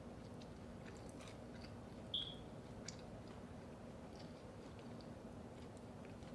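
Close-up mouth sounds of someone chewing food: faint scattered wet clicks and crackles. A brief high squeak about two seconds in is the loudest sound.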